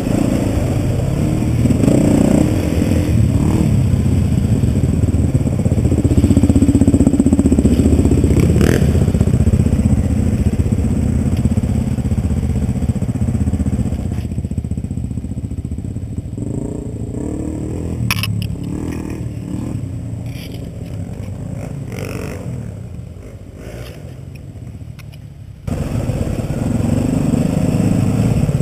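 Dirt bike engine running on a rough trail ride. About halfway through it drops to a quieter, low running for roughly ten seconds, then comes back suddenly and loud near the end.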